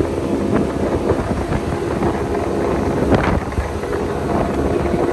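Motorboat's engine running steadily under way, with wind buffeting the microphone.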